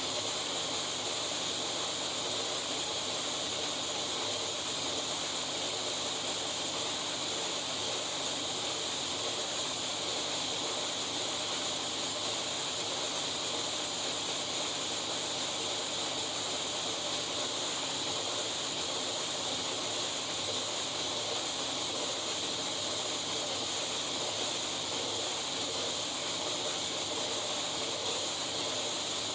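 A steady, even hiss that does not change or rise and fall, with no engine note in it.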